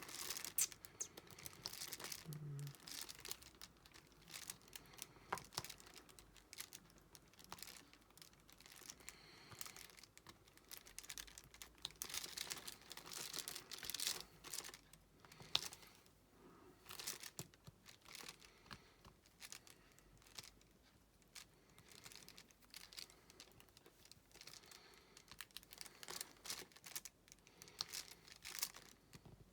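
Faint, irregular small clicks and crinkling of diamond painting: resin drills picked up from a plastic tray and pressed onto the adhesive canvas with a drill pen, the canvas's plastic cover film rustling.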